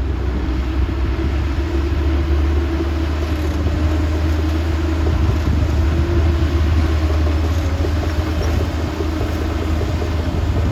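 Heavy diesel earthmoving machine running steadily, a low engine drone with a humming tone above it.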